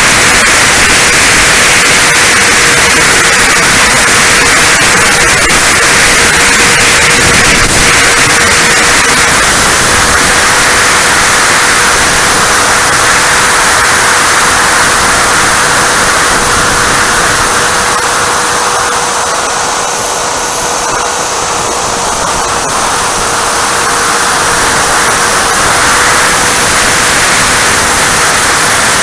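Electric ducted fan of a Freewing Avanti S 80mm RC jet running in flight with heavy wind rush. Its high whine drops in pitch and the sound eases off about two-thirds of the way through, then climbs back as the throttle comes up again.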